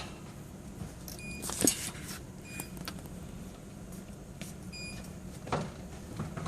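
Electric reach truck running with a steady low hum, giving short electronic warning beeps a few times, with several sharp knocks; the loudest knock comes about a second and a half in.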